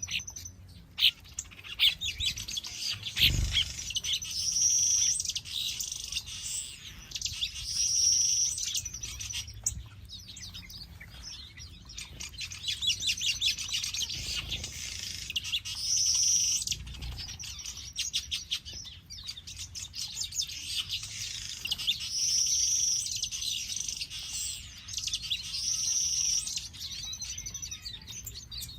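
Small aviary birds chirping and twittering without pause, high-pitched, with a short song phrase coming back every few seconds.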